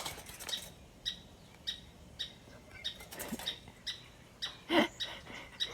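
A small bird chirping over and over, short sharp chirps about twice a second, with a louder, fuller call about five seconds in.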